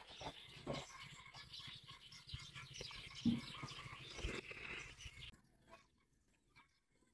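Background birds chirping, with a few low thumps, the loudest about three seconds in. The chirping drops away sharply a little after five seconds.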